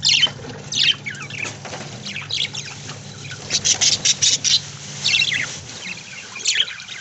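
A flock of budgerigars chirping and chattering in short, high, falling calls, with a quick run of calls about three and a half seconds in. A faint low hum sits under the first half.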